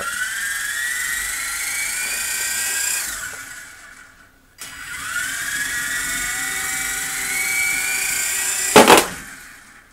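Small electric motors of a cheap toy RC helicopter spinning up with a rising whine, then dying away. They spin up again and whine steadily. Near the end comes a loud short crash, a failed attempt to hover.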